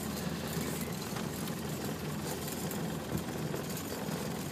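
Land Rover Defender's engine running steadily, heard from inside the cab while it tows a drag harrow across a field.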